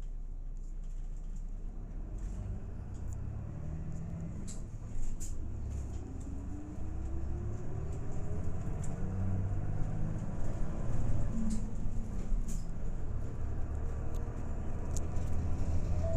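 Route bus engine heard from inside the cabin, pulling away and accelerating: the low engine note grows louder, with a rising whine about six seconds in and scattered light clicks and rattles.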